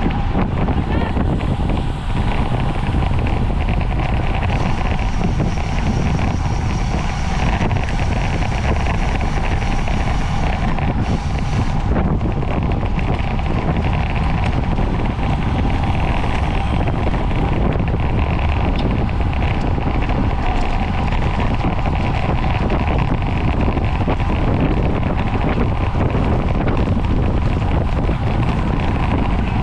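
Wind buffeting the microphone of a camera riding on a racing bicycle at speed, a steady rushing noise with no let-up.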